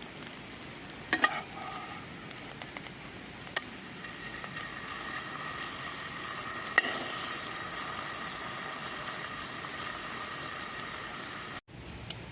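Food frying in a hot pan: a steady sizzle, with a few sharp clicks of a utensil against the pan. The sound cuts out for a moment near the end.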